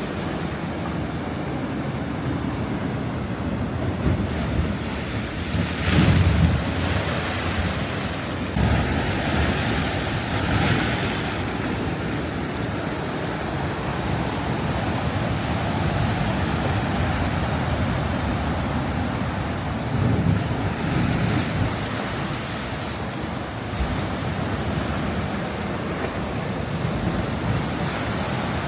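Sea waves washing onto the shore, a steady rush that swells louder a few times, with wind buffeting the microphone.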